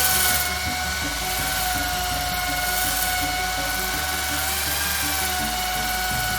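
An electric power tool, drill-like, spinning up at the start and then running steadily with a whine that wavers slightly in pitch, over background music with a steady beat.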